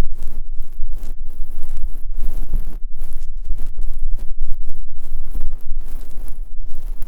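Ear-cleaning ASMR sounds: a tool scraping and rubbing right against the microphone in irregular strokes with short gaps, over a heavy low rumble.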